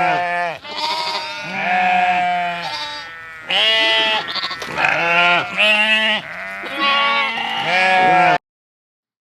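Several sheep bleating, many calls overlapping one after another, until the sound cuts off suddenly near the end.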